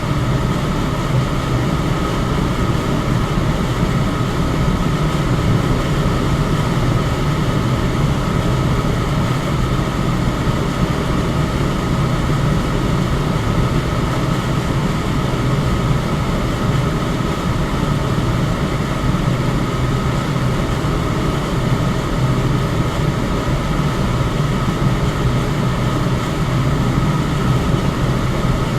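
Electric fan running steadily: a constant whoosh of moving air with a low hum and a faint steady higher tone, with no change in speed.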